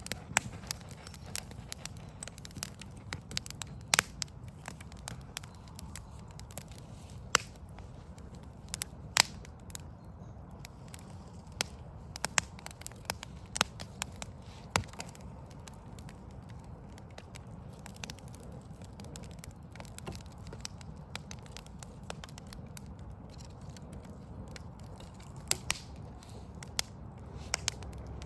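Backyard wood fire of burning logs crackling, with sharp, irregular pops a few times a second, some much louder than the rest. Underneath runs a steady low rumble of distant city noise.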